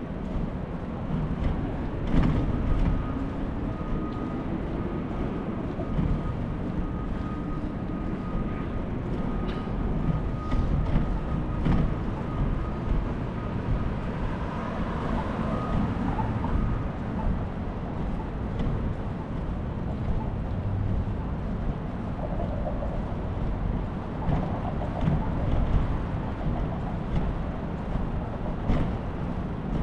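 City street traffic heard from a moving bicycle: a steady low rumble of passing vehicles, one engine rising in pitch a couple of seconds in, and a thin steady whine for about fifteen seconds.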